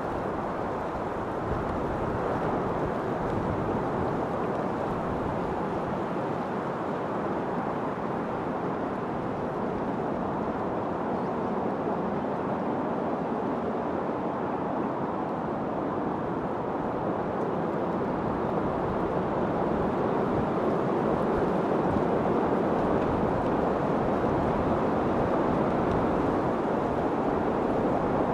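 Steady wind noise, an even rushing that swells slightly louder in the last third.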